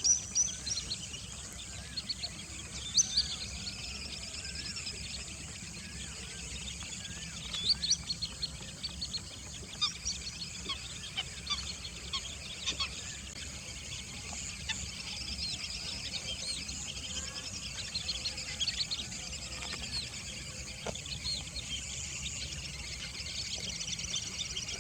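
Birds chirping and calling, many short high chirps overlapping throughout over a steady outdoor hiss, a few louder calls standing out now and then.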